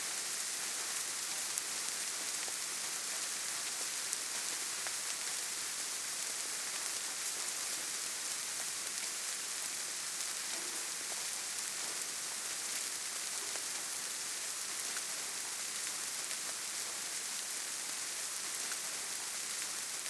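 Steady rainfall: a dense, even hiss with scattered faint taps of single drops.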